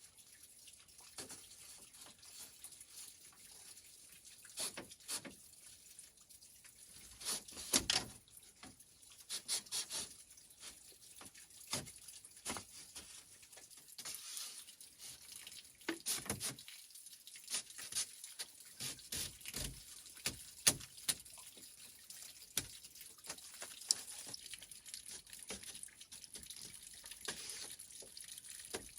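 Water running and dripping in a kitchen sink, with irregular small knocks and clinks scattered throughout.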